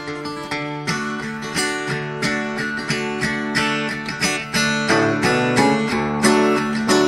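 Strummed acoustic guitar playing a steady rhythmic chord pattern in a rock recording.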